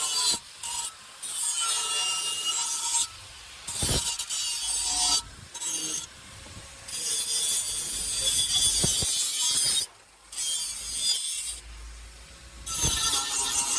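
Wood being worked by hand: rasping, rubbing strokes of a tool against wood in several long passes, a second to a few seconds each, with short pauses between.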